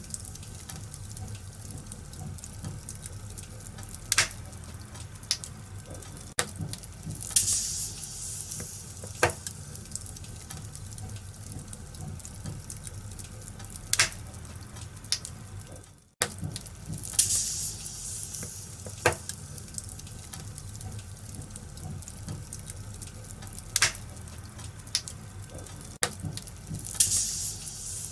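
Wood fire crackling in a fireplace: a steady low rumble and hiss with sharp pops every second or two. The sound briefly drops out about halfway through, then resumes.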